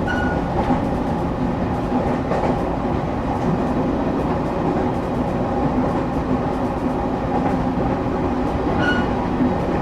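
Steady running noise inside a moving train carriage: a low rumble and hiss of wheels on rail, with faint ticks. A brief high squeak comes right at the start and again near the end.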